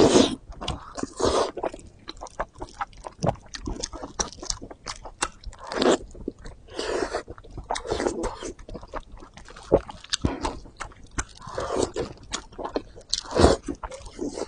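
Close-miked biting and chewing of braised fatty pork with skin: wet mouth sounds with many irregular sharp clicks and smacks.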